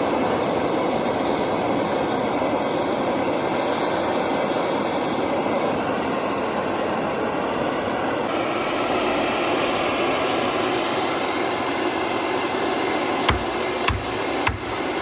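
Gas torch burning steadily as it heats a steel steering column to slide it apart. About two seconds before the end, three sharp hammer blows on the metal.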